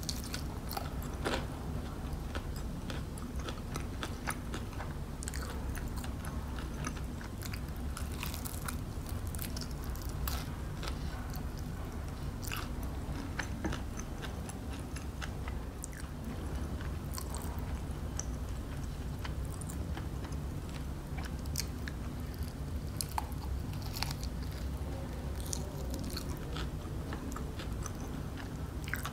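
Close-miked chewing and crunching of crispy KFC fried chicken, with many short sharp crunches scattered throughout over a steady low hum.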